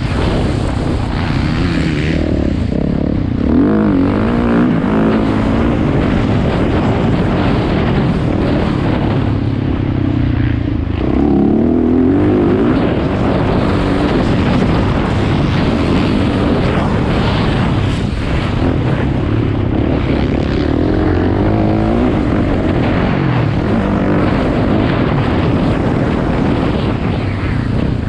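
Motocross dirt bike engine running hard, its pitch rising and falling again and again as the throttle is opened and closed, over a constant low rumble.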